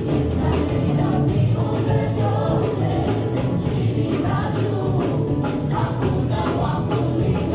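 Gospel praise music: a choir singing over a band, with steady bass notes and a regular beat.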